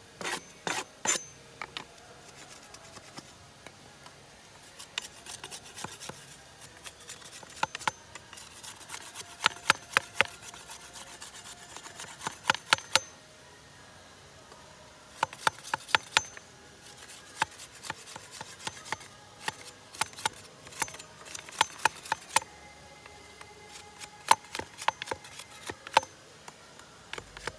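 A hand tool scraping and clicking against wood in irregular bursts of sharp clicks with short pauses between, as when whittling a wooden slingshot fork.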